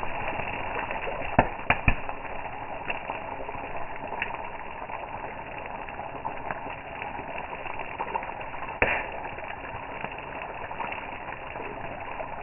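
Campfire crackling steadily, with a quick run of three loud pops about a second and a half in and another sharp pop near the end.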